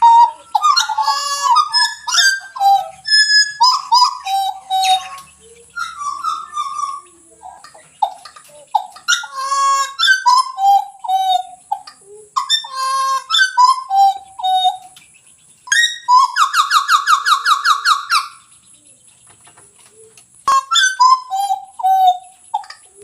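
Pied butcherbird singing: phrase after phrase of clear whistled notes that slide up and down. About two-thirds through comes a fast, even trill lasting about two seconds, then a short pause before the whistled phrases resume.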